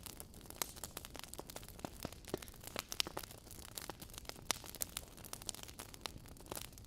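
Wood fire burning in a fireplace, logs crackling and popping in many irregular sharp snaps over a low steady hiss.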